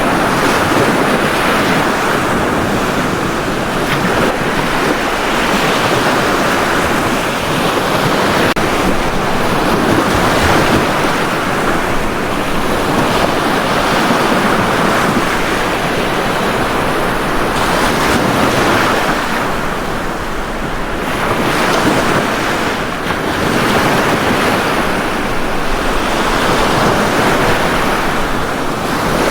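Ocean surf: waves breaking and washing on a beach in a continuous rush that swells and eases gently every few seconds.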